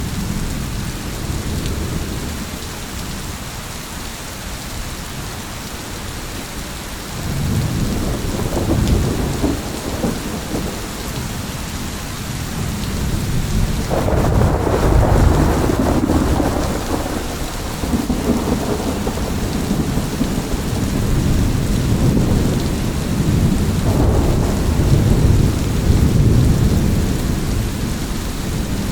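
Steady rain falling through a thunderstorm, with rolling thunder rumbling in and out several times; the strongest roll comes about halfway through.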